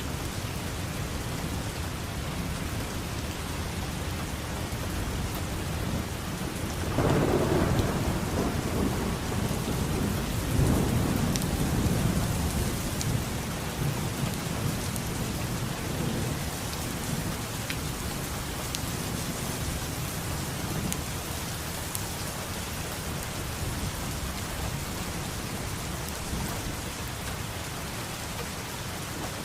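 Steady heavy rain with thunder: a low rumble of thunder builds about a quarter of the way in, rolls again a few seconds later and fades, over a continuous hiss of rain with scattered drop ticks.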